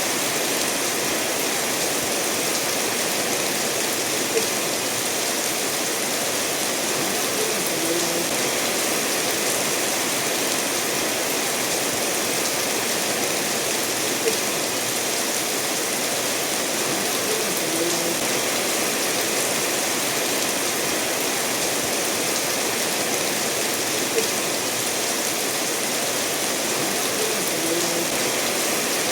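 Steady rainfall mixed with a stream flowing over stones, an even unbroken rush of water. Three brief sharp clicks stand out, about ten seconds apart.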